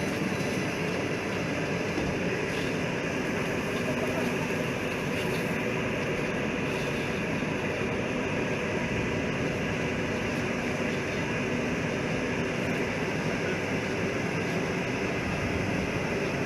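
Train running on the rails: a steady, continuous rumbling noise with no break or change.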